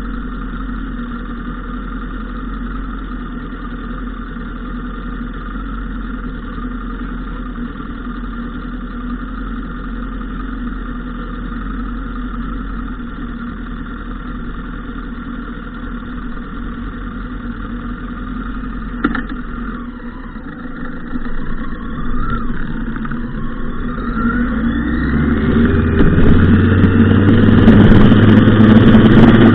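Motorcycle engine running steadily, then rising in pitch and getting louder over the last several seconds as it accelerates. A single sharp click about two-thirds of the way through.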